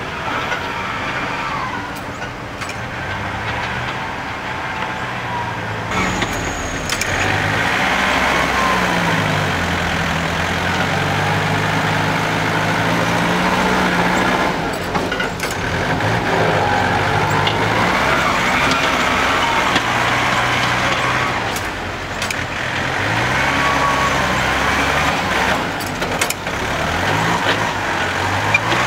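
Six-wheel dump truck engine running, its speed rising and falling several times.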